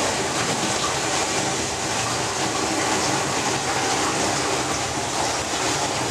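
Steady, loud rush of a torrent of water pouring down a slope: a staged flash flood released from tanks at the top of a hill.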